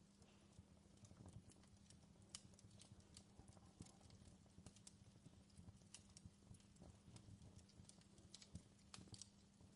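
Faint campfire crackling: irregular sharp pops and snaps of burning wood over a low steady hum.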